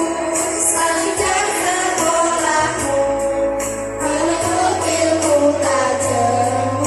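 Primary school children's choir singing a slow song in unison over a backing accompaniment with a low bass line and a steady beat of light high percussion.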